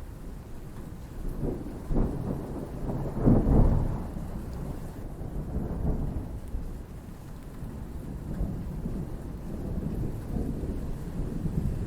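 Rolling thunder rumbling over steady rain. The rumble swells to its loudest about three and a half seconds in, then rolls on more softly.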